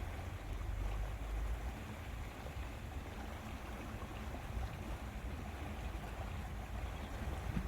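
Small waves lapping at a lakeshore, with wind rumbling on the microphone as a steady, uneven low noise.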